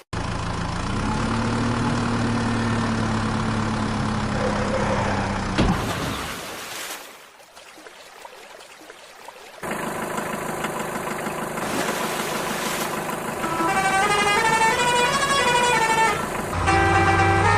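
A truck engine sound running steadily, stopping about six seconds in. After a short lull it runs again, and near the end a short tune of stepped notes sounds over it, like a musical horn.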